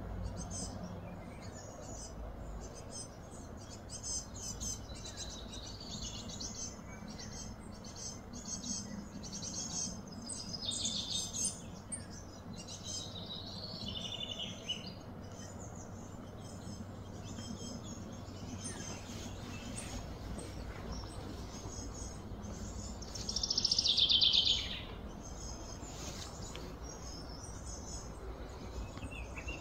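Wild birds chirping and calling in many short notes over a low, steady background hum, with one louder, longer call about three-quarters of the way through.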